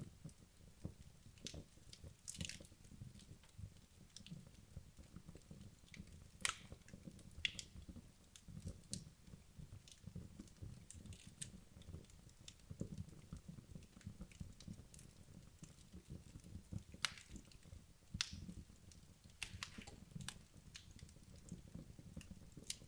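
Wood logs burning in a fireplace: a soft low flutter of flames under scattered sharp crackles and pops. The loudest pops come about six seconds in and again around seventeen seconds.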